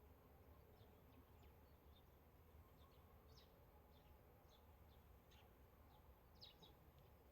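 Near silence: faint outdoor background with a low hum and scattered short, high chirps of small birds.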